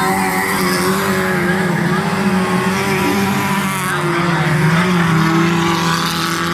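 Racing engines running hard at high revs, a loud continuous engine note that wavers up and down in pitch.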